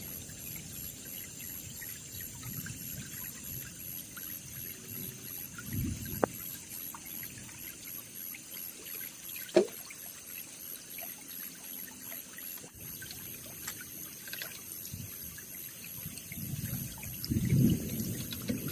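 Water trickling and pouring steadily, with two short knocks partway through.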